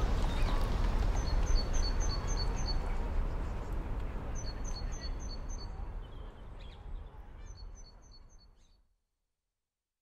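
A small bird repeating quick runs of short high chirps, four runs in all, over a low rumbling background noise. The whole soundscape fades out and stops about nine seconds in.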